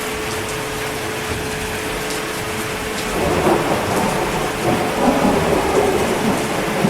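Steady heavy rain, with a roll of thunder coming in about three seconds in and rumbling on.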